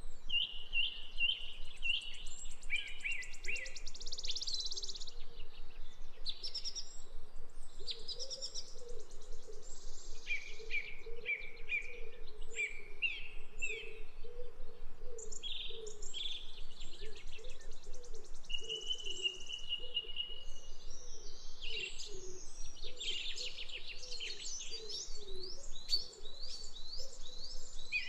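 Birds chirping and singing almost without pause, quick trills and tweets overlapping one another, over a quieter, lower warbling that runs underneath.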